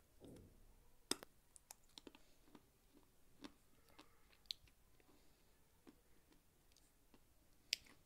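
Close-up mouth sounds of biting and chewing a soft, chalky white lump: scattered small crunchy clicks over a quiet background, with the two sharpest about a second in and near the end.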